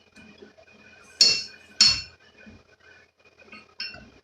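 Steel wall-mounted receiver hitch clanking as it is given a hard tug to test the lag-screw mounting: two sharp metal clanks about half a second apart, then a lighter one near the end.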